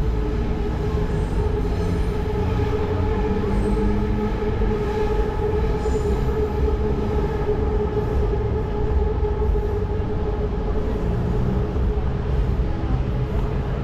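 Elevated Skytrain train running, a steady pitched motor hum over a continuous low rumble.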